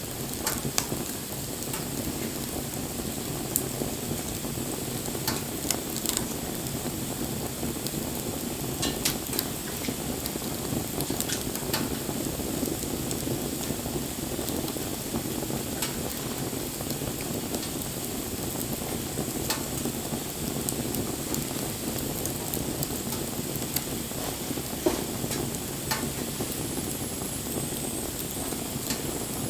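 Wood fire burning: a steady low rush of flame with scattered sharp crackles and pops from the burning wood.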